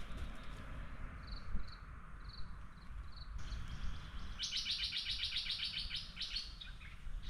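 A songbird singing: five short, high chirps spaced about half a second apart, then a fast trill lasting about two seconds. A steady low rumble runs underneath.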